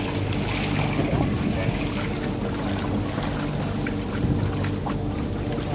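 Motorboat engine running steadily, with wind and rushing water over it.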